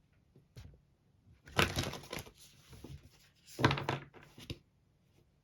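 A deck of oracle cards being shuffled by hand: two bursts of rapid card flutter about two seconds apart, with a light tick of handling just before.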